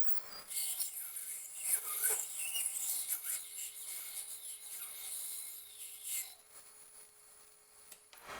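ULS25 ultrasonic drilling machine's 1.1 mm tool grinding into glass, a scratchy, rasping hiss that fades out about six seconds in, leaving a faint steady tone that stops just before the end.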